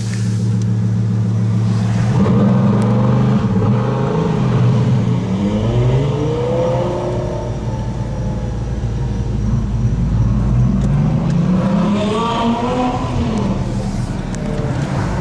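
A sports car's engine running loud, then revving up twice with a rising pitch as the car accelerates.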